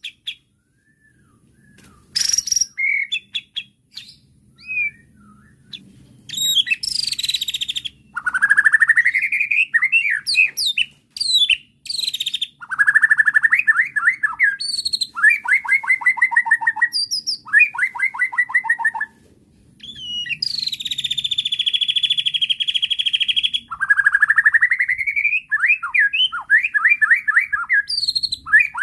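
White-rumped shama (murai batu) singing. After a few scattered short notes, it runs into a loud, varied song of rising whistled sweeps and rapid repeated trilled phrases, with one long buzzy note about two-thirds of the way through.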